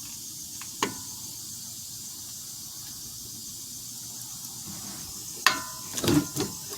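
Metal-on-metal clanks from tools and parts on a motorhome's rear disc brake caliper: one sharp click about a second in, then near the end a loud clank that rings briefly, followed by a few quicker knocks. A steady high hiss runs underneath.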